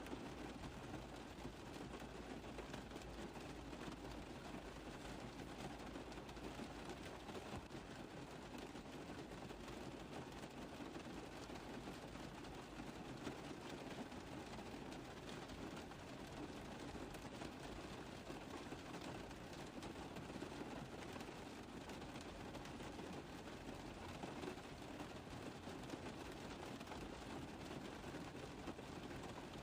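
Steady rain drumming on a car roof: a dense, even patter of drops with no break.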